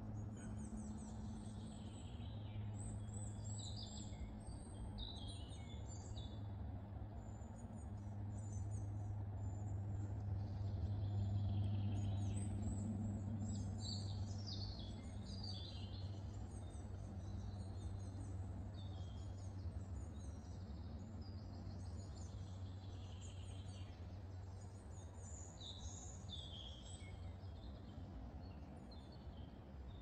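Several small songbirds singing and chirping, short high calls and trills scattered throughout, over a steady low hum that swells around the middle.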